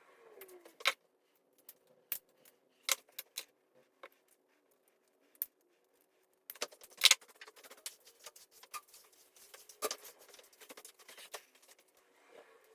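Scattered sharp clicks and light clinking of small hand tools working on electrical wire, thickening into a quick run of clicks in the second half, over a faint steady hum.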